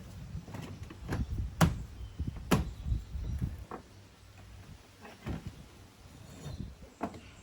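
A series of sharp knocks and clunks of containers being handled and set down, the two loudest about one and a half and two and a half seconds in, with a few softer knocks after.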